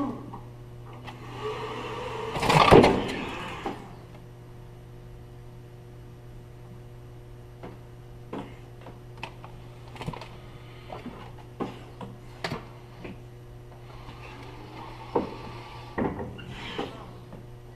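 A small electric motor whines for a couple of seconds near the start, over a steady low hum, followed by scattered sharp clicks and knocks and a softer whine near the end.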